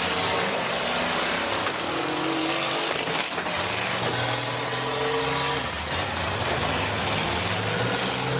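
School bus engines revving up and down, their pitch rising and falling, over a steady noisy din from the demolition derby arena.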